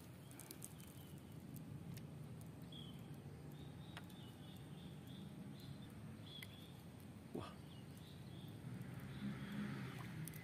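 Faint outdoor ambience: short, high chirps from small birds over a steady low hum, with a single sharp click about seven seconds in.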